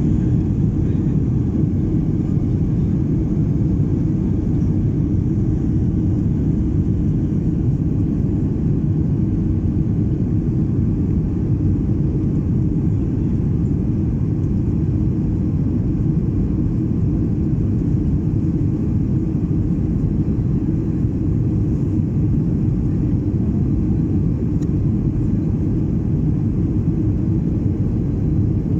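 Steady low roar of a Boeing 737 MAX 8's CFM LEAP-1B engines and rushing air, heard inside the passenger cabin, with no change in pitch.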